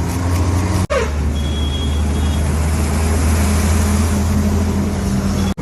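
Steady low engine drone of road traffic, loud and unbroken, with a motor vehicle running close by.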